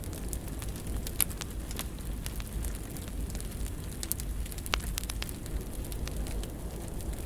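Fire burning in a fireplace: a steady low rumble of flames with scattered sharp crackles and pops, the loudest about a second in and two more a little past the middle.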